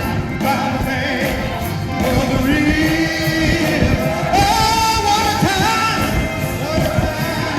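Singing of a hymn with instrumental accompaniment, held notes that rise and fall.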